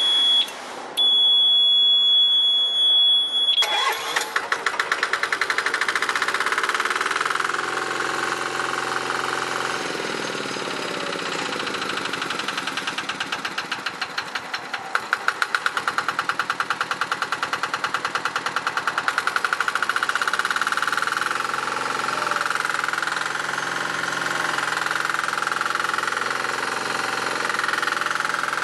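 A steady high-pitched beep sounds for about three seconds, broken once, then the BOMAG BW61YS roller's small Yanmar NFAD6-E single-cylinder diesel is key-started and catches about three and a half seconds in. The engine then runs on continuously, its speed shifting a few seconds after starting and a strong regular pulsing coming and going midway.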